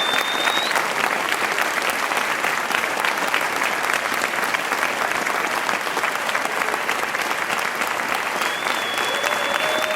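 Audience clapping steadily. A thin, high whistle-like tone sounds near the start and again near the end.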